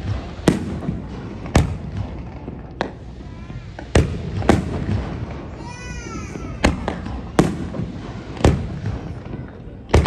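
Aerial fireworks shells bursting one after another: about nine sharp bangs at uneven intervals, each followed by a low echoing rumble.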